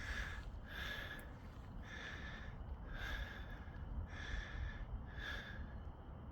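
A person breathing hard, about one breath a second, in an even rhythm.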